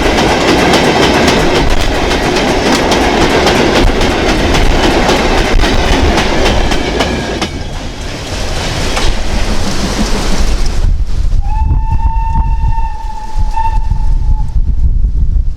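A steam-hauled train passes close by, its wheels clattering over the rail joints; the sound fades about halfway through. A little later the locomotive's whistle sounds one long note, rising slightly at the start and held for about three seconds.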